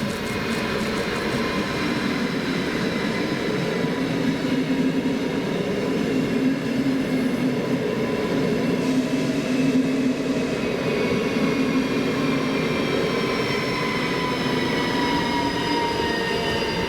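ES1P 'Lastochka' five-car electric multiple unit running past with steady wheel-on-rail rumble and the whine of its electric traction drive, several whining tones sliding lower in pitch during the last few seconds.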